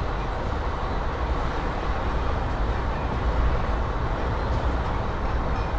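Indian Railways passenger coach running along the track at speed: a steady rumble of the wheels on the rails with the rush of air past the open window.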